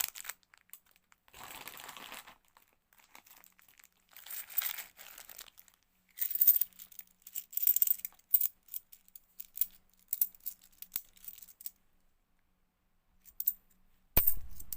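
A plastic coin bag rustles and crinkles while 50p coins are handled, with a run of short clicks as coins knock together. A sharp knock comes near the end.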